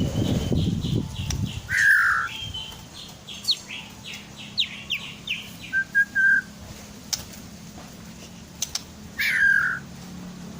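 White-rumped shama (murai batu) singing: rows of short, sharp whistled notes and chips, with two loud downward-slurred whistles, one about two seconds in and one near the end. A low muffled noise sits under the first second or so.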